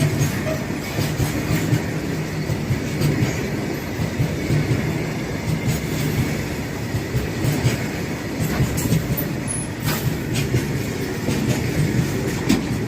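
Freight train's BCNA covered wagons rolling past: a steady rumble of steel wheels on rail, with scattered clicks of wheels passing over rail joints.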